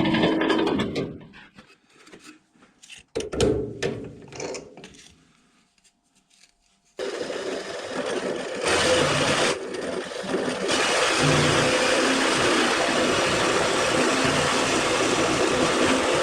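An electric power tool is running, with a loud, rough cutting or grinding noise. It stops about a second in, and a few light knocks and clicks of handling follow. After a short quiet spell the tool starts abruptly about seven seconds in and runs steadily from there.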